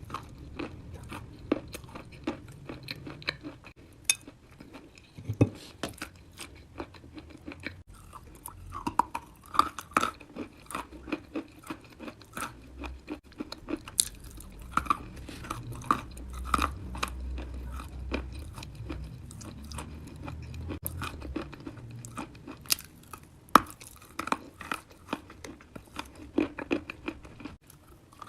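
A person chewing and crunching wet chalk: an irregular run of crunchy, crackly bites and chews, several a second.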